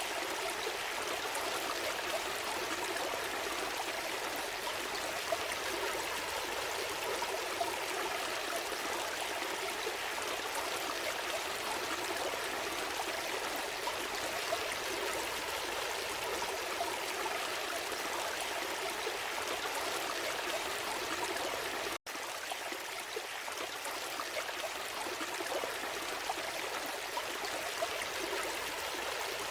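Gentle stream flowing, a steady rush and trickle of water, broken once by a momentary dropout about two-thirds of the way through.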